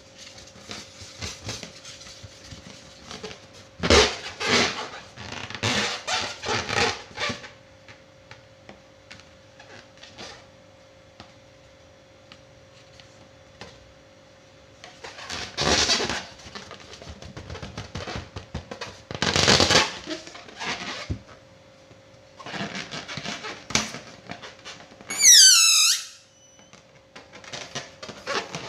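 Rubber balloons being handled: several bursts of rustling and rushing air, and near the end a short high squeal that falls in pitch.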